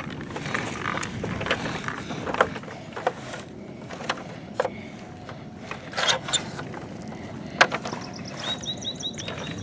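Plastic toy construction trucks being handled and pushed through dirt: irregular scraping with a scattering of sharp clicks and knocks.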